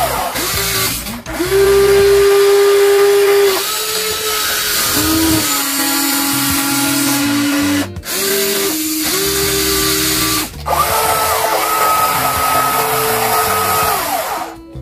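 Small electric gear motors of a radio-controlled toy construction vehicle whining. They start and stop in runs of one to three seconds, each rising in pitch as it spins up and falling as it winds down, with brief pauses between runs.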